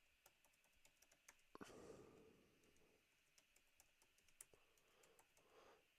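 Faint computer keyboard typing and clicks, scattered irregular keystrokes in near silence.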